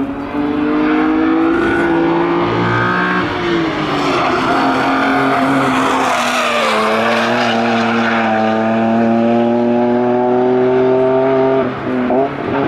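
BMW M3 (E46) straight-six running hard under load through a corner. It swells into a loud pass-by about six seconds in, then climbs steadily in pitch as it accelerates away, with a brief drop near the end, like a lift or gear change.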